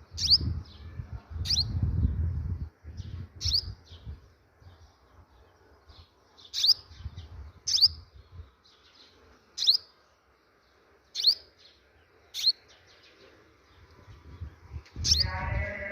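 A bird calls with a short, high chirp about a dozen times, each call a quick sweep in pitch, spaced a second or two apart. Low rumbling sounds under the first few calls.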